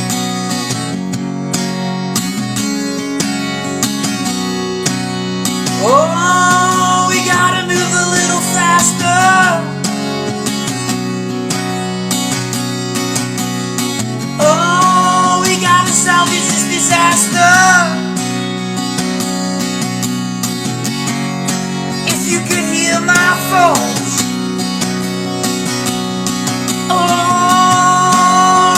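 Acoustic guitar strummed steadily under a solo voice singing a slow verse in four held phrases of a few seconds each, with guitar alone in the gaps between them.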